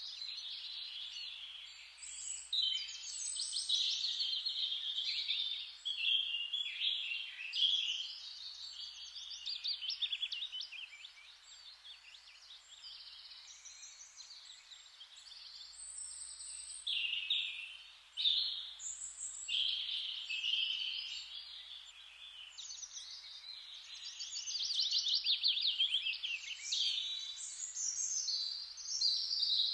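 Songbirds singing in a forest: one chirping, trilling phrase after another, with a quieter stretch near the middle, over a faint steady background hiss.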